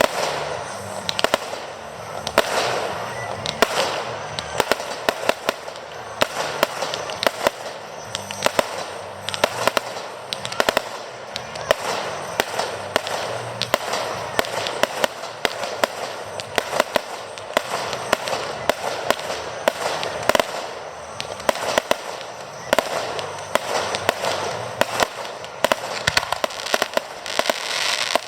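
Fireworks display: a dense run of shell bursts and crackling, sharp bangs coming several times a second over a continuous crackle.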